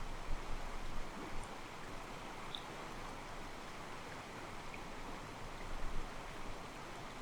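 Mountain stream flowing over rocks: a steady rush of water with a few louder sloshes about a second in and again near the end, and a few faint, brief bird chirps.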